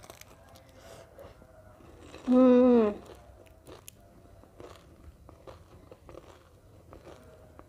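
A person chewing a bite of fried banana-and-chocolate snack, with faint crunching and mouth clicks, and a short hum, the loudest sound, a little over two seconds in.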